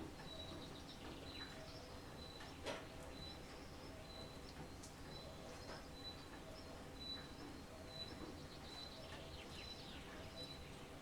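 Wild birds singing over a steady background hiss: one bird repeats a short high note about once a second, with scattered chirps from others. A single sharp tick about two and a half seconds in.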